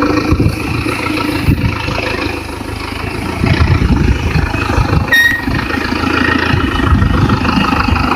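Vehicle engine running steadily with a low rumble, with a short high beep about five seconds in.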